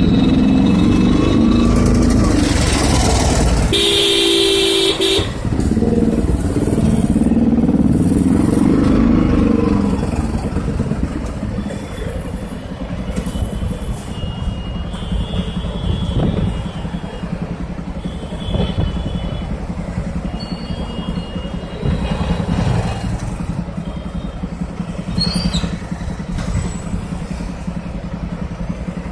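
Bajaj Pulsar 200NS single-cylinder engine running and revving while riding slowly in city traffic, with a loud horn blast about four seconds in. From about ten seconds in it is quieter: surrounding traffic noise with more short horn toots.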